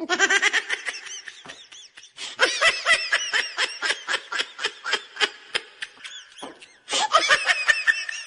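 Laughter: a long run of quick, high-pitched giggles, several a second, with a brief lull about two thirds of the way through before the giggling picks up again.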